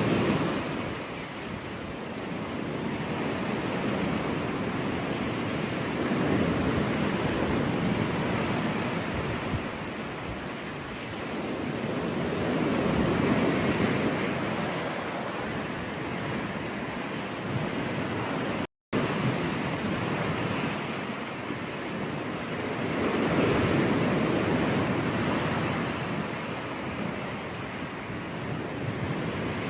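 Ocean surf breaking on a beach, an even wash of noise that swells and recedes every five to ten seconds as waves come in. The sound cuts out for a split second about two-thirds of the way through.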